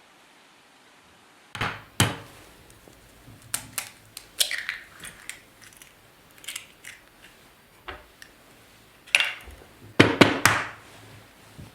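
A string of short knocks and clatters from objects being picked up and set down close by, starting about a second and a half in, with a louder cluster near the end.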